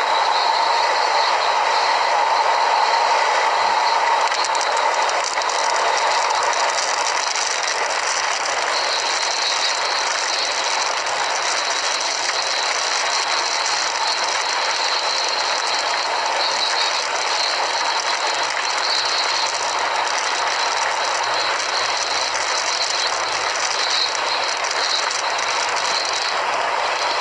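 Hail drumming steadily and densely on a vehicle, a continuous loud rattle.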